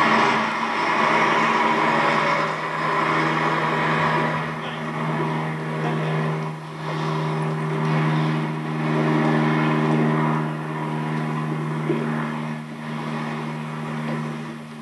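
Steady engine drone with rolling rumble from a moving train, heard as television sound played through a TV speaker.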